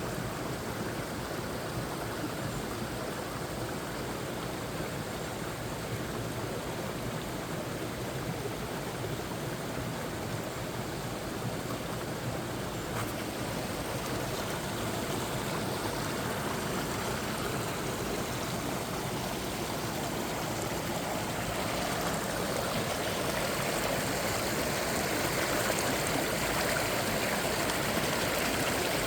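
Mountain valley stream flowing: a steady rush of water that grows gradually louder toward the end.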